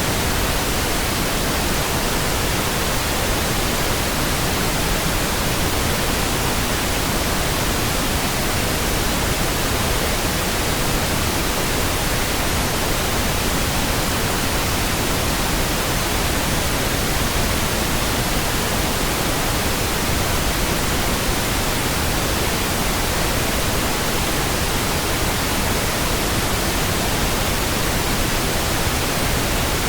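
Steady pink noise: an even, unchanging hiss spread across all pitches, with no breaks or sudden sounds.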